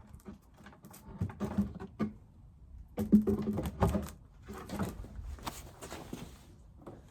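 Wooden beehive frames being handled: irregular knocks, taps and short scrapes against the hive box, busiest about three seconds in.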